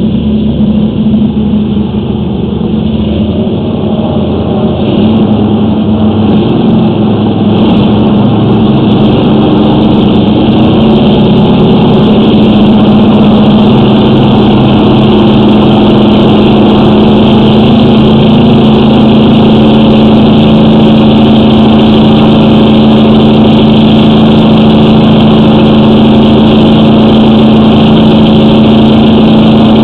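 An engine running steadily, growing louder over the first several seconds and then holding a steady drone.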